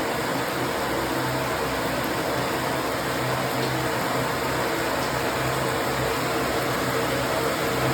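Steady rain making a continuous, even hiss with no distinct drops standing out.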